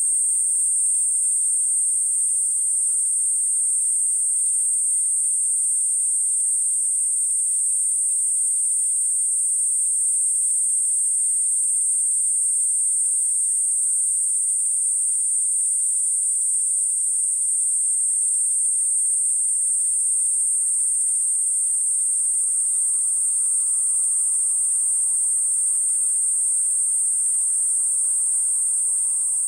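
Kuroiwa's cicada (Platypleura kuroiwae) singing: a steady, unbroken high-pitched buzz.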